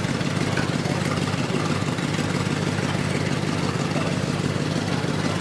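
Straight-piped V8 of a BMW E46 drift car idling steadily.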